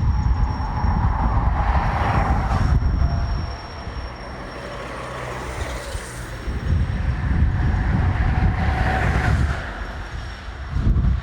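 Diesel shunting locomotive working at low speed during shunting: a heavy low engine rumble that eases for a few seconds midway and then picks up again, with a thin steady high tone over it.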